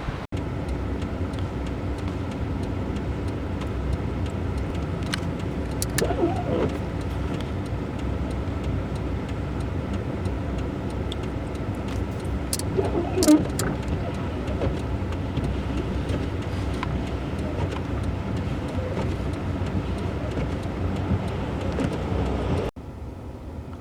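A car running steadily amid steady noise, with two brief louder sounds about six and thirteen seconds in.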